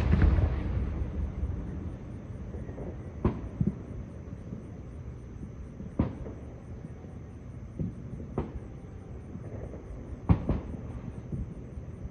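Aerial fireworks shells bursting: the rolling boom of a big shell dies away near the start, then single sharp bangs follow every couple of seconds, two of them close together near the end.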